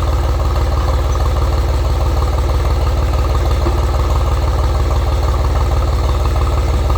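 Tractor engine idling steadily, with an even, rapid firing beat.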